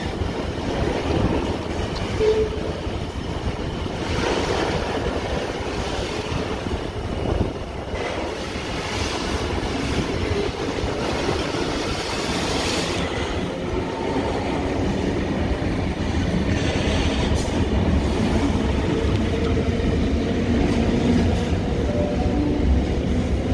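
Container freight train's wagons rolling steadily past on the track, a continuous sound of wheels on rails.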